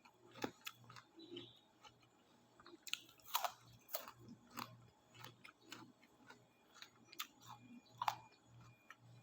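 Close-up chewing of crunchy guava: faint crunches and mouth clicks at an even chewing rhythm of about three a second, with a few louder crunches about three to four seconds in and again near eight seconds.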